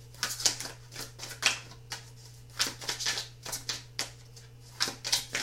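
A deck of tarot cards being shuffled by hand: irregular quick papery flicks and slaps of cards against one another, over a steady low hum.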